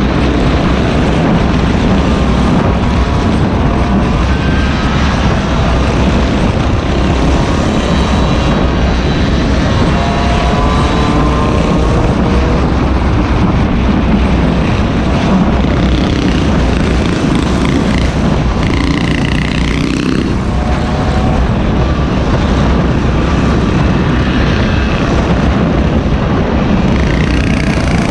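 Small gas engine running at riding speed, its buzzing pitch shifting up and down, over heavy wind rumble on the microphone.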